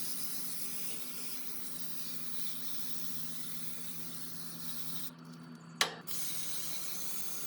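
Aerosol condenser coil cleaner spraying from the can in a steady hiss, stopping about five seconds in, then a sharp click and the spray starting again.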